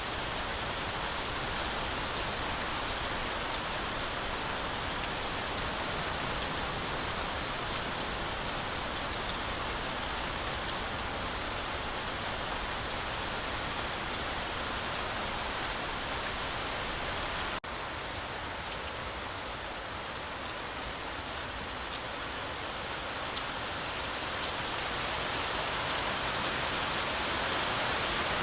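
Heavy rain falling steadily in a forest, a continuous even hiss, with a momentary break about two-thirds of the way through.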